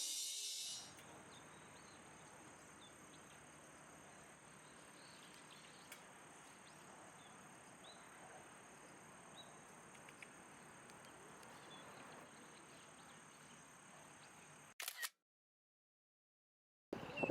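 Faint outdoor ambience: a low steady hiss with a thin high whine and a few faint, short, high chirps scattered through it. Near the end it cuts to dead silence.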